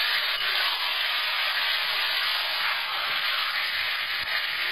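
Marinated chicken pieces and potatoes sizzling steadily in hot mustard oil in a kadai. The masala has cooked down until the oil separates.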